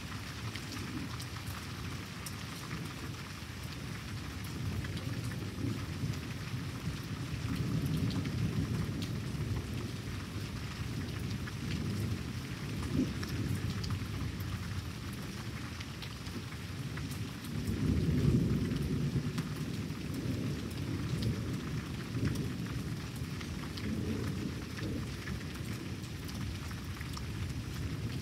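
Steady rain falling, with thunder rumbling repeatedly; the loudest rumble comes about two-thirds of the way through.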